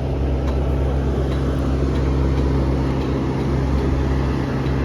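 Boeing 747 Large Cargo Freighter turbofan engine running steadily, a loud, even drone with a strong low hum.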